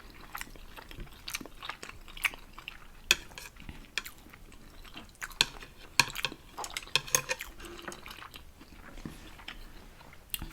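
Utensils clicking and scraping against a dish of noodles, with scattered irregular sharp clicks.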